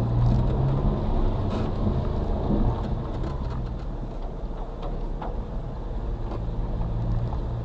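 Suzuki Carry kei truck's 660cc engine running, heard from inside the cab while it drives a forest off-road course; the engine note eases off around the middle and picks up again near the end, with a few light knocks.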